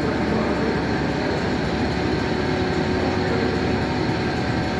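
Steady mechanical running noise from machinery, with a fast low pulsing and a faint steady hum over it.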